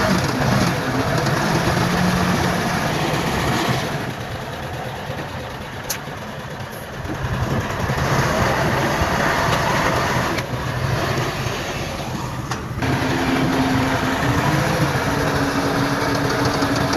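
Diesel engines of heavy earthmoving machinery running steadily. The sound drops away abruptly about four seconds in and returns about four seconds later, then shifts again twice before the end.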